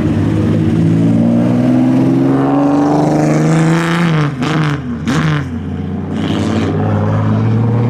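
A classic Nissan Fairlady Z (S30) widebody's engine accelerates past, rising in pitch. Around four and five seconds in, its note drops sharply and climbs again twice, each time with a rasping rush of exhaust. Another car's engine then carries on steadily.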